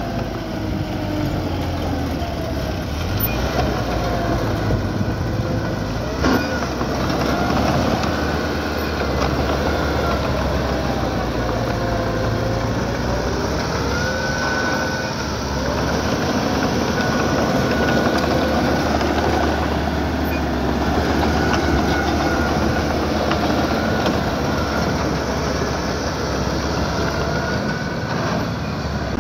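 Small crawler bulldozer's diesel engine running steadily, with wavering squeals and clatter from its tracks and one sharp knock about six seconds in.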